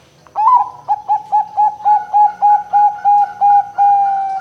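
Zebra dove (perkutut) cooing: a quick run of about a dozen short, clipped coo notes ending in one longer drawn-out note.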